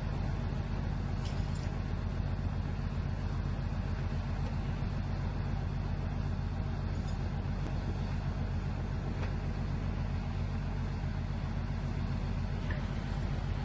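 A large engine running steadily: a continuous low drone with a fast, even pulse and no change in pitch or level.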